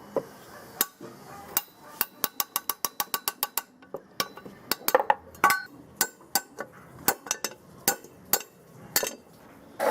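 Sharp metallic clicks and taps from hand work on metal parts, including a quick, even run of about a dozen clicks near the middle.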